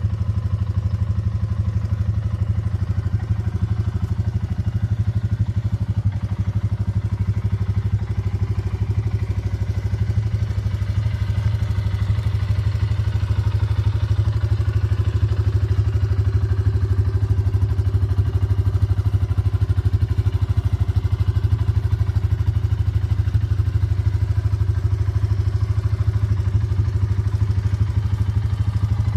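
Suzuki KingQuad 400 ASi quad bike's single-cylinder four-stroke petrol engine idling steadily, with no revving.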